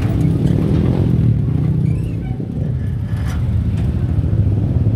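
Passenger train running away along the track: a loud, steady low rumble that dips slightly about two seconds in.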